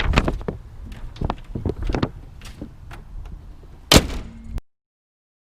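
Scattered light clicks and knocks, then one loud slam about four seconds in; the sound cuts off suddenly just after.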